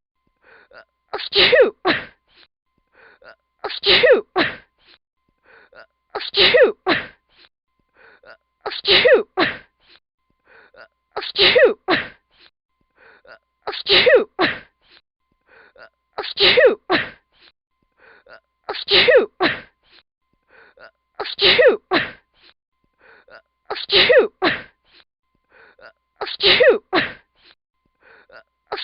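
A pregnant woman's short, breathy vocal burst falling in pitch, repeated identically about every two and a half seconds as a looped sound effect.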